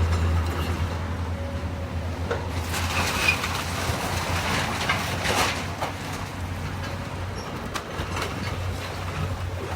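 Diesel engine of a heavy demolition machine running steadily, with scattered cracks and clanks of debris being broken during the building teardown.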